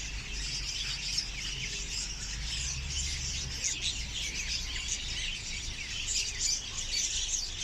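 Many caged small pet birds chirping and twittering together in a dense, continuous chatter of short high chirps.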